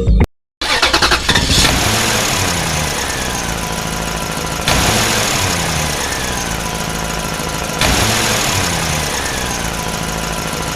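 An engine running, starting abruptly after a short gap. About every three seconds it jumps louder and its pitch falls, three times in all, the regular repeat of a looped engine sound clip.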